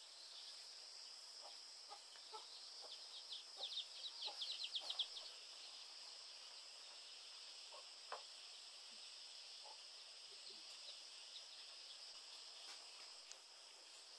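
Faint countryside ambience: a steady high insect drone, with a bird singing a quick run of chirps from about three to five seconds in. A few faint snaps and clicks come and go.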